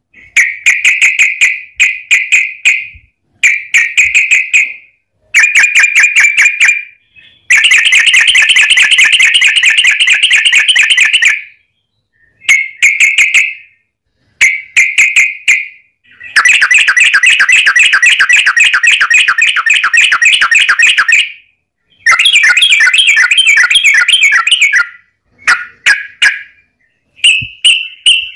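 Yellow-vented bulbul (trucukan) singing loud, fast chattering phrases of rapid notes, broken by short pauses. It twice runs into a long rattling trill (ropel) of about four to five seconds.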